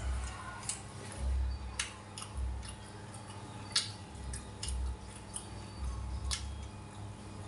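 A person chewing food close to the microphone: irregular small crunchy clicks and mouth sounds, with soft low thumps.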